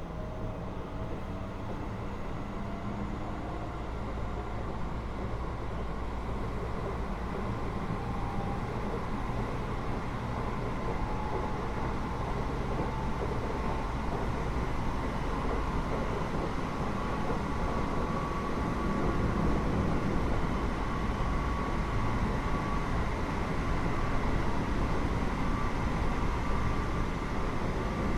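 Running sound heard inside a Keio 8000 series electric train, above its Hitachi GTO-VVVF main controller: steady rumble of wheels on rail with faint electrical tones from the controller and traction motors. It grows gradually louder.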